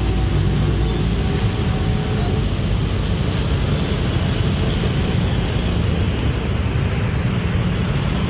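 Train passing close by at speed, a steady loud rumble of wheels on the rails with an engine drone underneath.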